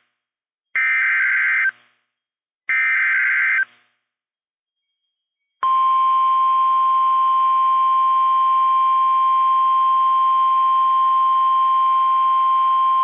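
NOAA Weather Radio alert sequence: two short buzzy SAME digital header bursts about a second apart, then, after a brief silence, the steady 1050 Hz warning alarm tone starts about five and a half seconds in and holds. It is the signal that a weather warning broadcast is about to follow.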